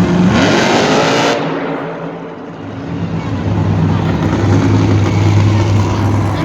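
Monster truck's supercharged V8 engine revving hard: its pitch climbs steeply in the first second or so, falls away, then runs loud and steady.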